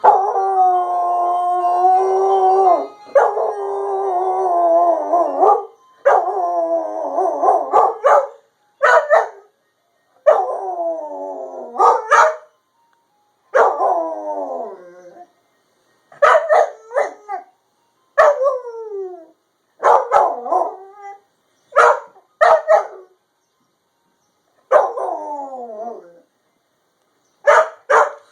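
Puppy howling at an ice cream truck: a series of pitched howls, the first few held for a few seconds each, the later ones shorter and sliding down in pitch, broken up by short yips.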